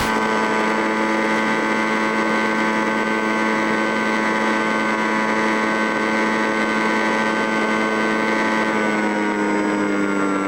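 A small motor running at a steady high speed, a constant whine with many overtones; its pitch sags a little near the end.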